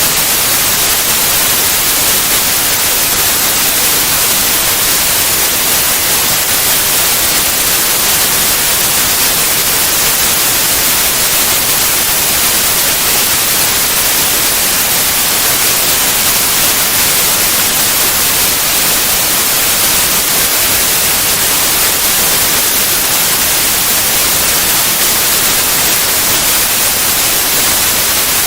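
Steady white noise: an even, unchanging hiss, brightest in the treble, with no breaks or events.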